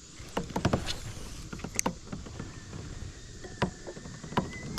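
Scattered knocks and clicks of gear being handled against a kayak hull, about ten sharp taps, over a low rumble of water and hull noise.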